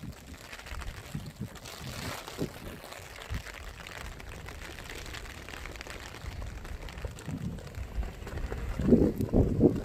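Rain falling, with water splashing and trickling. There is a cluster of louder low thumps about nine seconds in.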